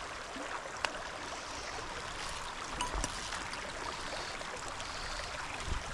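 Small mountain creek running over rocks: a steady rush of flowing water, with a faint sharp tap about a second in.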